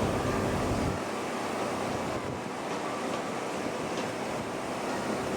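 Hushed outdoor crowd ambience with a steady hiss like wind on the microphone. A low rumble drops away about a second in, and a few faint ticks follow.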